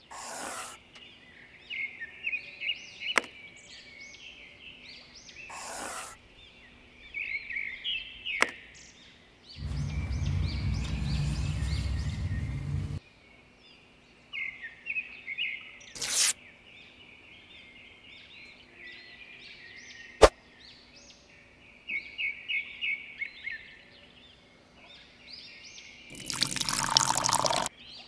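Birds chirping steadily in the background. A stream of water is poured into a small metal tray for about three seconds near the middle, and a few light metallic clicks come from the miniature buckets and spoon. A second short pour comes near the end, as the small metal cup is tipped into the tray.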